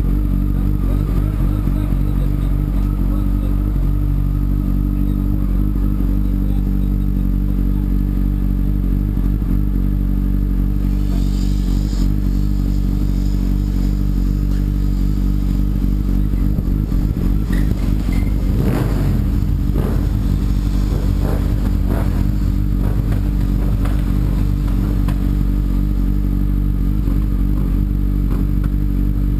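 Sport motorcycle engine running at a steady pitch while riding at a constant speed. A short hiss comes about eleven seconds in, and a run of clicks and rattles comes a little past halfway.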